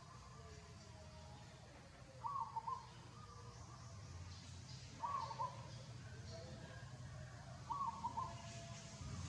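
A short animal call, repeated three times about two and a half seconds apart, over a faint low hum.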